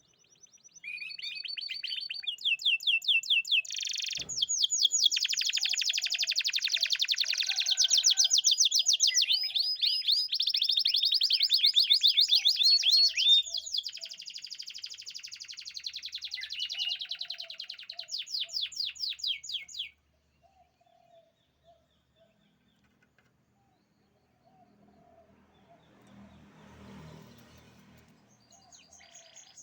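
Domestic canary singing a long, loud song of fast trills and rolls of rapidly repeated notes. The song breaks off about twenty seconds in and starts again near the end.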